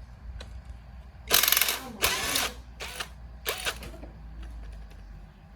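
A hand-held power tool run in four short bursts, the first and longest about half a second, the others shorter, as parts are worked on an off-road motorcycle.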